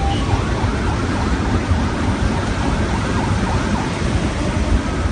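Loud, steady rushing noise of storm floodwater and heavy rain, strongest in the low end.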